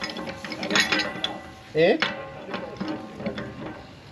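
Metal clicks and knocks of plumbing tools working a pipe union and its fittings, an irregular run of sharp taps.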